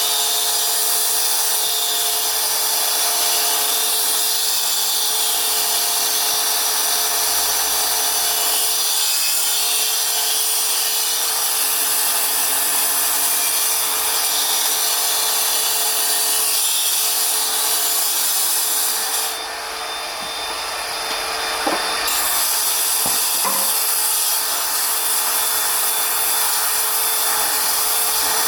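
Electric power tool grinding stone: a steady abrasive hiss over a constant motor whine, easing off for a couple of seconds about twenty seconds in, with a few light knocks, then carrying on.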